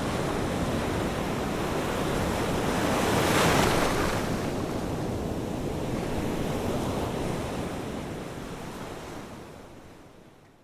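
Ocean waves washing on a shore, with one wave breaking louder about a third of the way in. The surf then fades away near the end.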